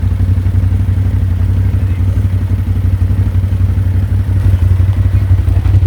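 A vehicle engine idling steadily, a loud, even low rumble with a fast flutter.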